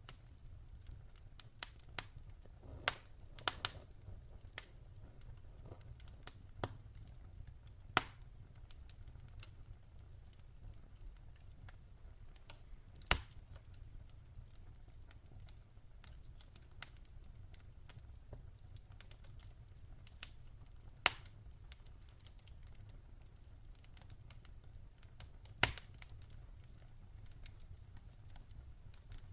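Campfire crackling: a low steady rumble of the burning fire with irregular small snaps and a handful of louder sharp pops, the loudest about 25 seconds in.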